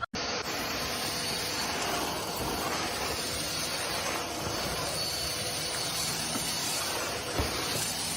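Steady, even hissing noise with a faint high tone running through it.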